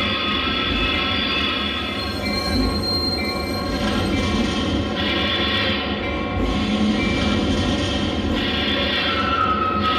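A train running: a steady rumble and rattle with high, wavering squeals over it that come and go, like wheels squealing on rails.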